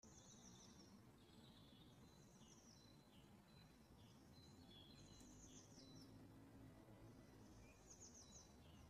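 Near silence: faint bird chirps, short high twittering phrases recurring every second or two over a low background hiss.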